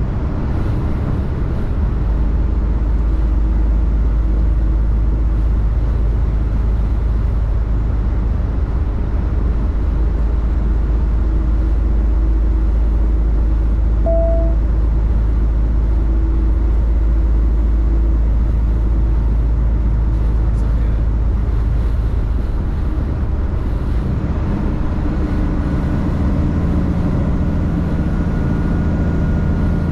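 Truck's diesel engine and road noise heard from inside the cab while driving: a steady low rumble, with a brief tone about fourteen seconds in and the engine's note changing about three-quarters of the way through.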